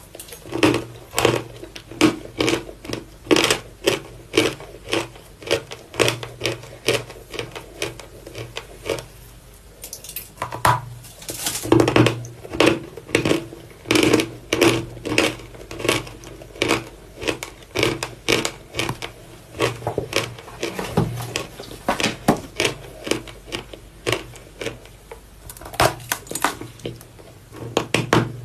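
Chunks of Vatutino chalk being bitten and crunched: a steady run of crisp, crumbly crunches, several a second, with a brief lull about ten seconds in.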